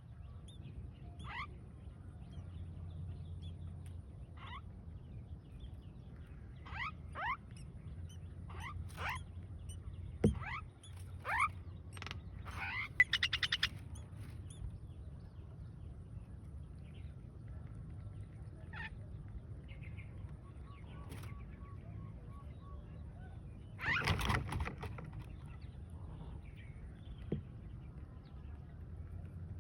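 Bird chirping: scattered short downward chirps, with a quick run of rapid notes about thirteen seconds in and a louder burst a little past halfway, over a low steady hum.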